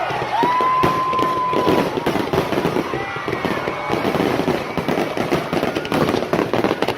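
Fireworks popping and crackling in quick succession, the crackle growing denser through the second half. A long steady whistle sounds for about a second and a half near the start, with crowd voices underneath.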